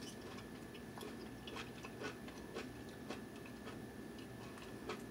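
A person chewing a mouthful of curry and rice close to the microphone: faint, irregular wet mouth clicks, a few a second.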